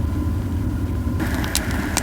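Pine-cone campfire burning over a low steady rumble, with sharp crackling pops starting about a second in.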